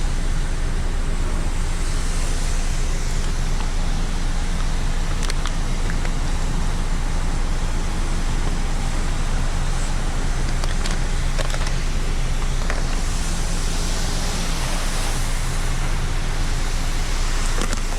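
Steady low machine hum under a constant hiss, with a few faint clicks.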